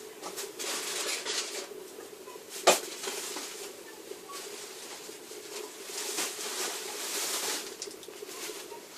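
Faint scratching and tapping, as of a parrot's feet and beak working on a wooden door, with one sharp click about three seconds in, over a steady low hum.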